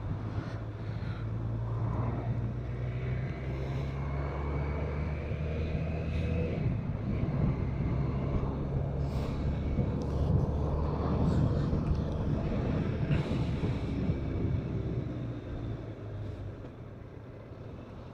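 BMW K1200RS motorcycle's inline-four engine running under way, with wind and road noise on the rider's microphone. The engine note changes about six or seven seconds in, and the sound fades over the last few seconds as the bike eases off.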